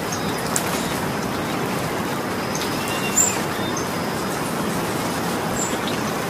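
Steady rain falling, an even hiss, with a few faint high chirps over it and one brief louder click about three seconds in.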